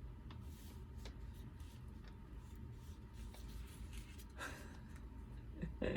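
Faint rubbing and scuffing of craft work on a paper tag over a low steady hum, with a brief louder rustle about four and a half seconds in.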